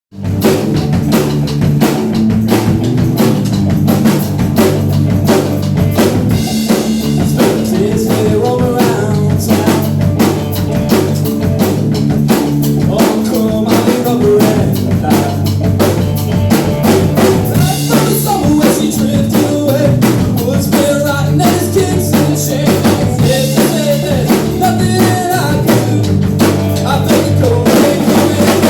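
Live band playing an instrumental passage of a rock song: a drum kit keeps a steady beat over bass and other pitched instruments, with no singing.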